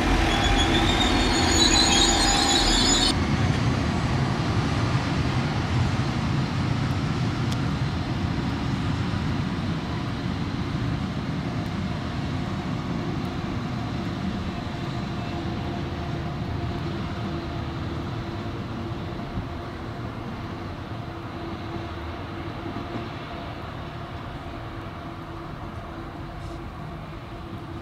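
A train passes close, with high squealing tones over the rumble, for about the first three seconds. The sound then cuts to a long double-deck regional train running away down the line: a steady rumble of wheels on rails with a low hum, slowly fading.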